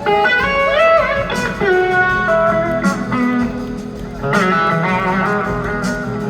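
Live band music led by an electric slide guitar playing a lead line whose notes glide up and down, over bass and drums. A new guitar phrase comes in about four seconds in.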